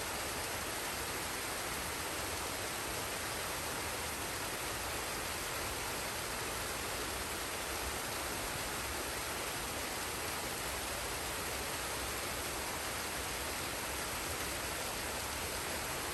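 Waterfall and stream water rushing, a dense steady hiss with no changes.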